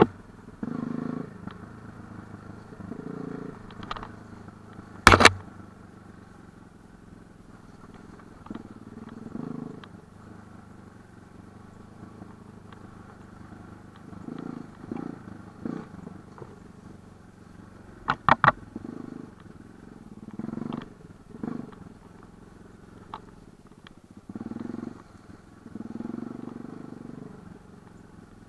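Light enduro motorcycle engine running at low revs, swelling briefly every few seconds as the throttle is opened and eased. A single sharp knock comes about five seconds in, and a quick rattle of clicks about two-thirds of the way through.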